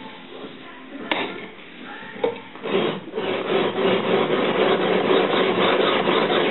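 An India oil stone rubbed back and forth along the spine of a hand-forged leaf-spring steel sword blade. After two sharp knocks, a steady scraping of rapid, even strokes sets in about two and a half seconds in.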